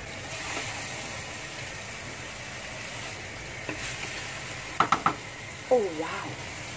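Fresh-chili balado paste and chunks of tuna sizzling in a frying pan with a steady hiss, the paste cooked down until its oil has separated. A little under five seconds in a spatula clicks against the pan three times in quick succession.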